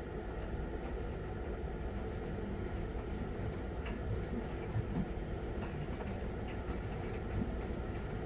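Miele Novotronic W921 front-loading washing machine running in its wash cycle: a steady low rumble and hum with a few faint clicks.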